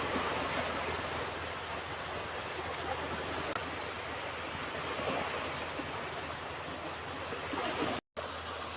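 Ocean surf washing steadily onto a beach, swelling and easing gently. Near the end the sound cuts out abruptly for a split second, then resumes.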